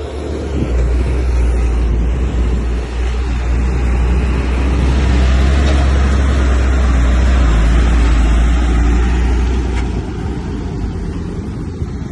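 Diesel engine of heavy earthmoving machinery running with a deep, steady rumble. It grows louder through the middle and eases near the end.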